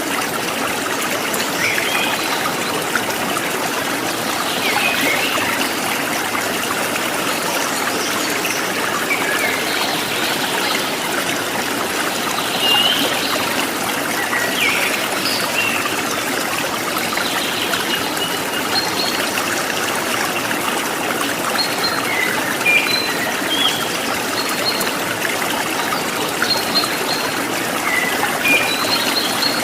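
Stream water trickling and running steadily, with small birds giving short chirps now and then throughout.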